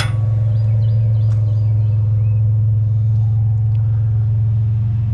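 Truck engine idling with a steady low hum, with a sharp metallic clank right at the start and faint high chirps in the first couple of seconds.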